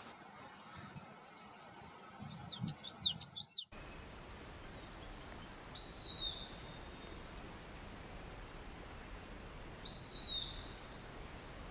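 Wild birds singing: a quick run of high, rapidly rising and falling notes, then after an abrupt cut two separate downslurred calls about four seconds apart, with a fainter rising note between them.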